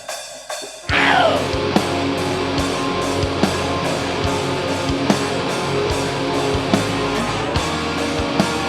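Live metal band launching into a song: a few quieter beats, then the full band comes in loud about a second in with distorted guitars and drums, a falling sweep marking the entry. Heavy, dense music with a steady drum pulse follows.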